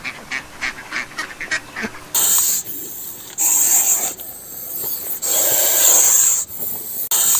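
Waterfowl calling rapidly, about five honking calls a second, for the first two seconds. Then a loud hissing noise comes in several stretches, starting and stopping abruptly.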